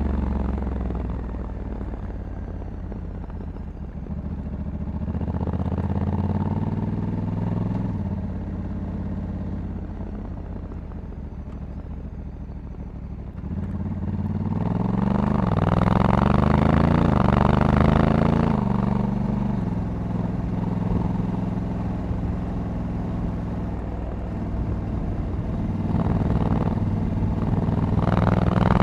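Honda Africa Twin 1100 DCT motorcycle's parallel-twin engine under way. It pulls moderately, then accelerates hard about halfway through, its pitch climbing in several quick steps as the dual-clutch gearbox shifts up. It settles to a steady cruise and picks up again near the end.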